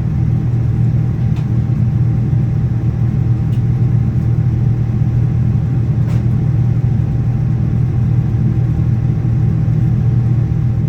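Steady low rumble of a Boeing 787-9's Rolls-Royce Trent 1000 engines and airflow, heard from inside the passenger cabin in flight. A few faint clicks come through about one and a half, three and a half and six seconds in.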